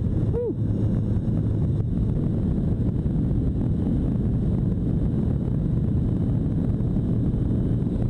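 Honda CB650 Nighthawk's air-cooled inline-four engine running steadily under way, mixed with wind rushing over the microphone.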